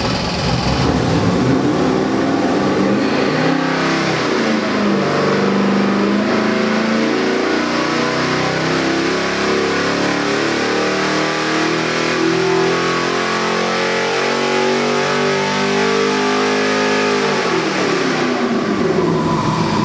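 LS 441 cubic-inch V8 crate engine on a dyno making a pull: after a few seconds of lower, rougher running, its pitch climbs steadily for about thirteen seconds under load. Near the end it drops back sharply as the throttle comes off.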